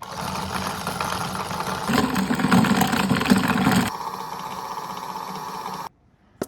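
Washing machine running. About two seconds in it grows louder, with a low hum and a dense clatter. It drops back to a quieter, steady run near four seconds and then cuts off suddenly.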